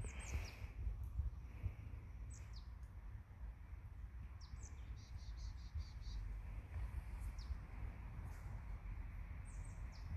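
Small birds chirping: short, high, falling chirps every couple of seconds, with a quick run of about six repeated notes around the middle, over a steady low rumble.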